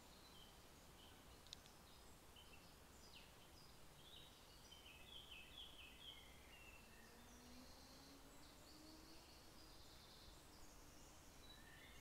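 Faint woodland birdsong: several small birds chirping and trilling, with one sharp click about a second and a half in.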